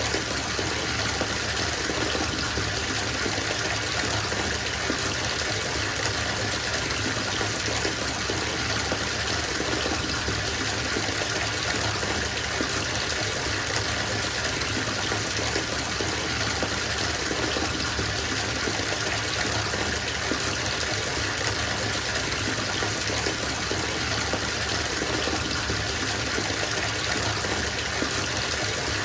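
Bathtub filling from the tap: a steady gush of running water splashing into the tub.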